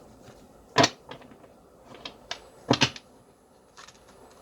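Tarot cards being handled and shuffled: a few sharp card slaps and clicks, the loudest about a second in and a close double one near three seconds.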